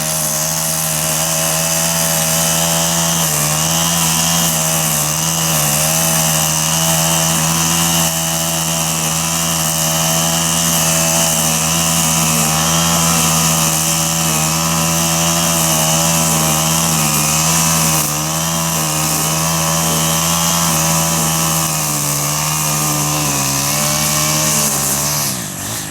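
Gas weed eater (string trimmer) running at high revs, its small engine wavering in speed as the line cuts through tall grass, then throttling down and winding off near the end.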